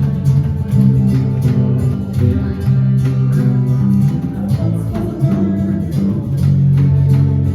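Live band music between sung lines: guitars playing with a bass guitar underneath, in a steady rhythm.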